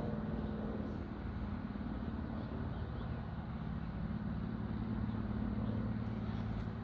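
Distant aircraft engine drone, a steady low hum that swells slightly a few seconds in and eases near the end.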